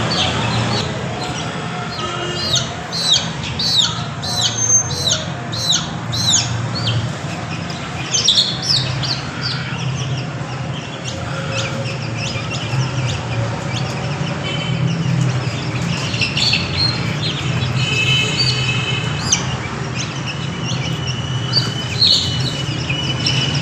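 Ayam Cemani chicks peeping: many short, high cheeps that fall in pitch, coming in flurries, over a steady low hum.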